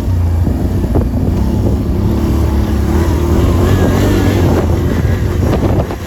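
Dirt bike engine running steadily, with wind buffeting the microphone.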